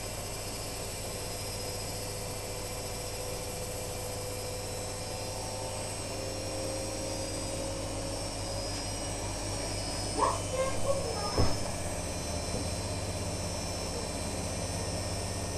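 Privileg Sensation 9415 washing machine running: a steady motor and drum hum with a faint whine that slowly rises in pitch. A few short knocks and rattles come about ten to eleven and a half seconds in.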